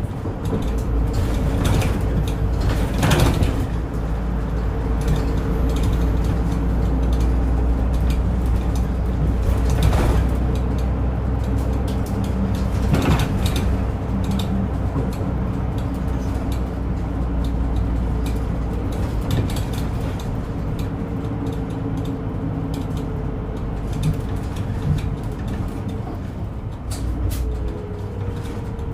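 Inside a Japanese route bus on the move: the engine drones low and steady with a whine of steady tones from the drivetrain and a few rattles and knocks from the body, the drone easing off near the end as a whine slides down in pitch.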